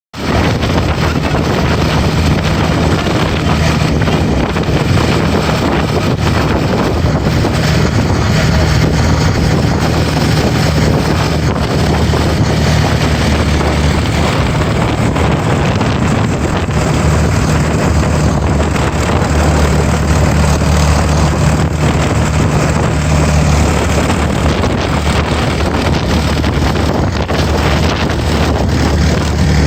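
Boat engine running steadily with a constant low hum, with wind buffeting the microphone.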